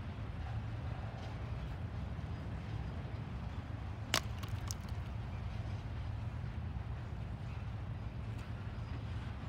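Intermodal freight train rolling past, a steady low rumble of its wheels on the rails, with one sharp click about four seconds in.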